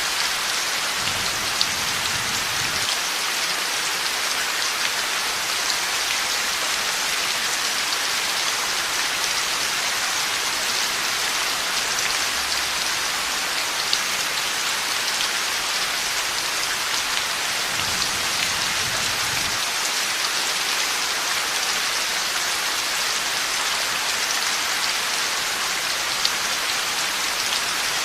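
Heavy rain falling steadily, a dense even hiss of drops hitting surfaces. Two brief faint low rumbles come through, one about a second in and another around eighteen seconds in.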